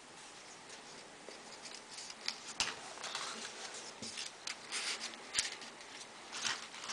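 Folded paper units of modular origami rustling and scraping as they are pushed onto one another, with faint, irregular little ticks.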